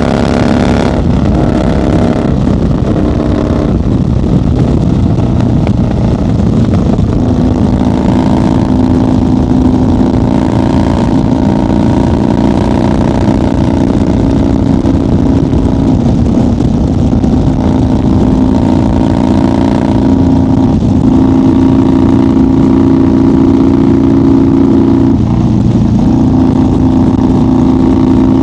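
1990 Harley-Davidson FXR's Evolution V-twin running at highway speed, heard from on the bike. The engine note changes several times in the first few seconds as the revs shift, then holds steady, dipping briefly twice near the end.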